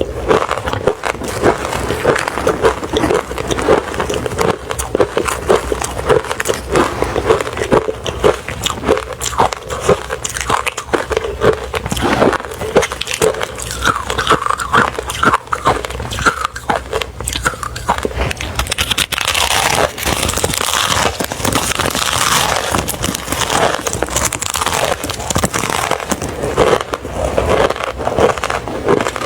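A person chewing crushed ice close to the microphone: rapid, dense crunching and crackling of ice being bitten and ground between the teeth. About two-thirds of the way through it turns brighter and grittier, more like fine grinding.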